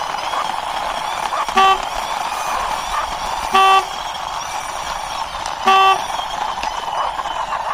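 A horn honks three times, about two seconds apart; the first honk is short and the other two are a little longer. Under the honks runs a steady whirring noise.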